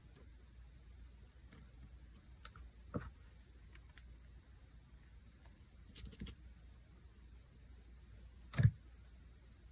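Slime being worked by hand: a few scattered soft clicks and pops, with a louder pop near the end.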